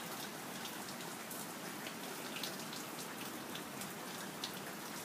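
Steady rain during a thunderstorm: an even hiss with faint, scattered ticks of single drops landing.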